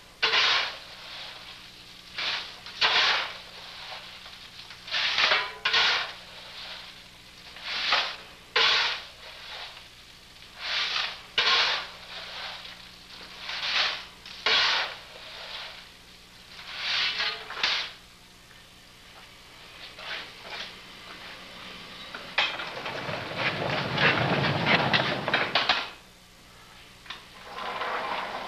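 Slow-running reciprocating steam machinery exhausting in pairs of short steam puffs, one pair about every three seconds. Later comes a longer, louder hiss of steam lasting about three seconds, over a faint steady hum.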